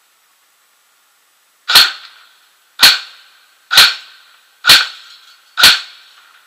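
Airsoft electric gun (AEG) running on an 11.1 V LiPo battery, firing single shots: five sharp cracks about a second apart, each with a short ringing tail.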